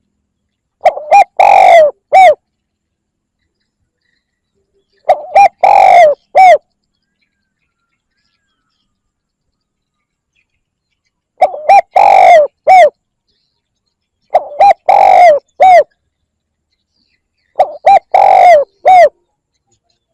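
Spotted dove cooing: five phrases a few seconds apart, each a short coo, a longer coo and a short closing coo. It is a decoy male's call, used to lure wild doves.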